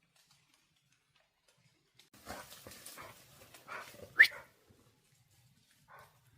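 A dog barking and vocalizing: rough low sounds about two seconds in, then a short sharp bark just after four seconds, the loudest moment, and a faint brief sound near the end.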